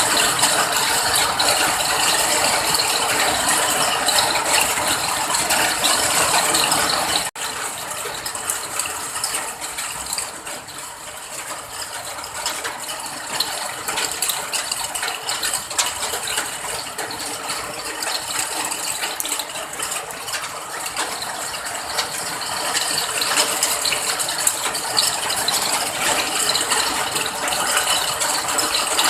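Steady rain, a dense continuous patter of close drops. About seven seconds in, the sound cuts abruptly to a slightly quieter stretch of rain.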